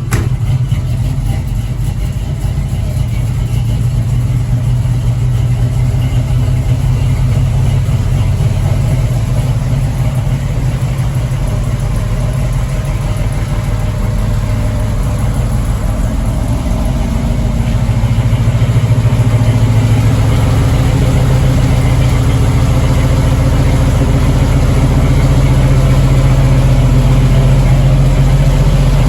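Chevrolet 502 big-block V8 idling on the choke just after a cold start, warming up with a steady idle. It gets somewhat louder about two-thirds of the way through.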